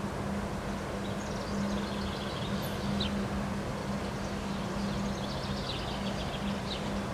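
Wind rumbling on the microphone outdoors under a steady low hum, with birds chirping in two bursts of rapid, high trills.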